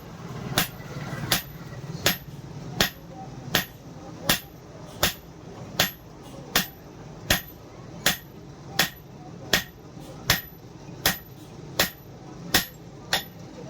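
Blacksmith's hammer striking steel on an anvil in a steady, even rhythm, about four blows every three seconds, each blow ringing briefly: hand-forging bearing steel into a throwing knife.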